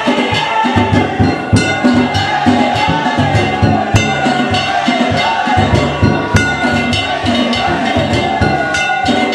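Danjiri float festival music: taiko drum and clanging hand gongs in a brisk steady rhythm, with a high wavering tune over them.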